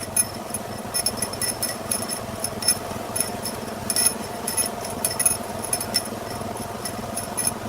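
A motor-driven workshop tool running steadily with a constant hum, over which come irregular sharp metallic clicks and rattles.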